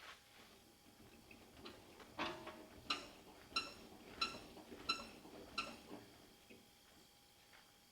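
A faint series of about six short ringing ticks, evenly spaced about two-thirds of a second apart, fading out after about six seconds.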